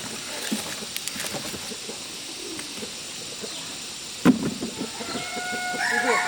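A rooster crowing near the end, one long held call. A single sharp knock comes just before it, and faint light clicks come earlier.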